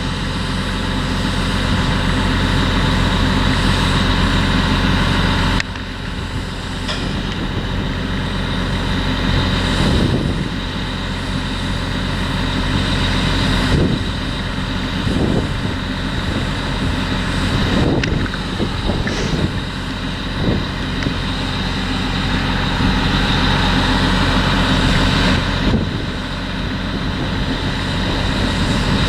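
Potato harvesting machinery running steadily: a heavy diesel engine drone with a constant low hum. The sound changes abruptly about six seconds in and again near the end.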